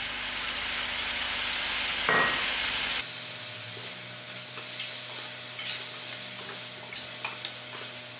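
Potatoes frying in oil in a stainless steel pot, sizzling steadily with freshly added tomato, with a brief louder burst about two seconds in. In the second half a metal spoon stirs the pot, giving sharp clicks and scrapes against its side.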